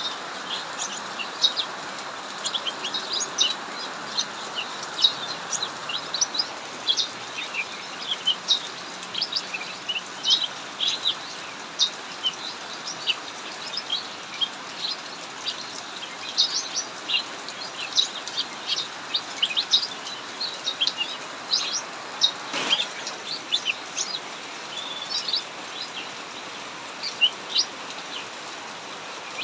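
A cucak mini songbird chirping rapidly in quick, busy bursts of short high notes, over a steady hiss of heavy rain. A single sharp knock sounds about three-quarters of the way through.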